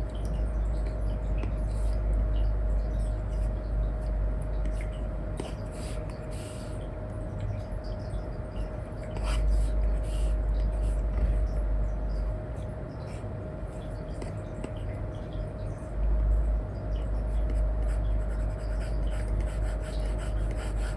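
Stylus nib scratching and rubbing on a paper-like screen film in short strokes, over a steady low rumble.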